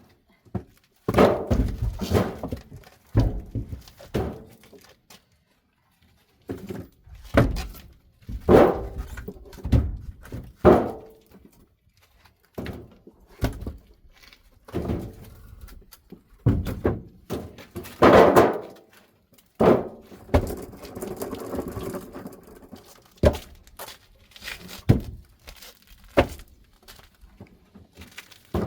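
Split firewood logs being handled and dropped onto a stack, making irregular wooden thunks one to two seconds apart with brief pauses. There is a stretch of scraping partway through.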